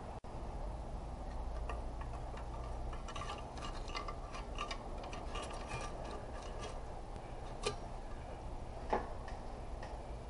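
Light clicks and taps of metal transmission parts being handled, thickest a few seconds in, with two sharper knocks near the end, over a steady low hum.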